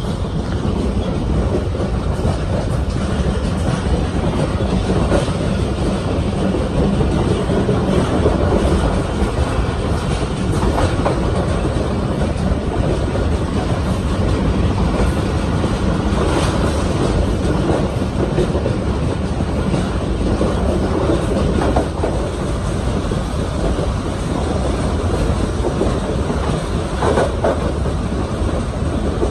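Railcar train running along the track: a steady, loud rumble of wheels and running gear, with a few separate clacks over rail joints.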